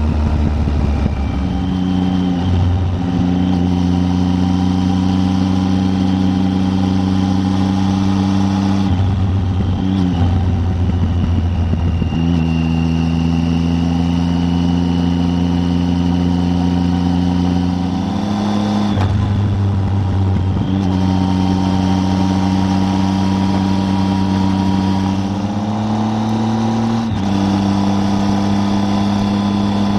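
Triumph Tiger 800's three-cylinder engine running under way on the road, its note holding steady for several seconds at a time and stepping up or down in pitch a handful of times as the bike changes speed or gear.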